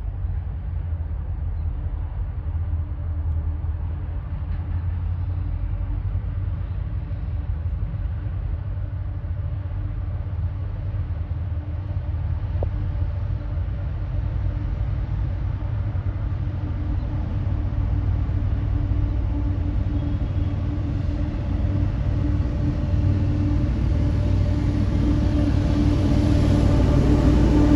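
Diesel freight train approaching: a steady low rumble with a steady engine hum that grows louder toward the end.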